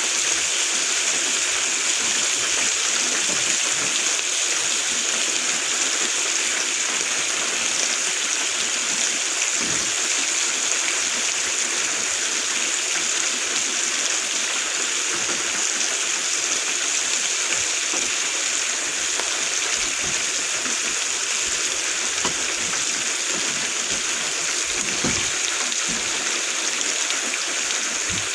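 Steady rain falling on the fort's roof, an even hiss with a few faint knocks.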